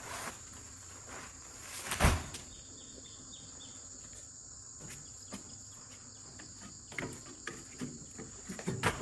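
Steady high insect chirring, with one loud thump about two seconds in and a few lighter knocks and clicks later on.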